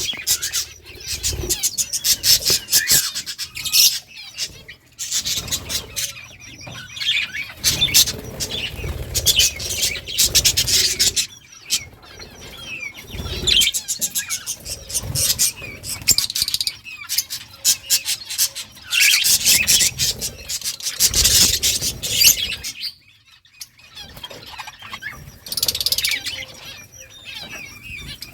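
Budgies chirping and chattering, many calls overlapping in a dense, loud chorus, with a brief lull about twenty-three seconds in.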